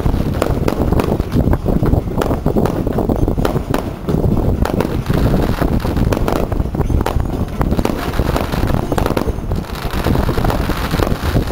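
Aerial fireworks going off in a dense run of rapid bangs and crackles, over a steady low rumble.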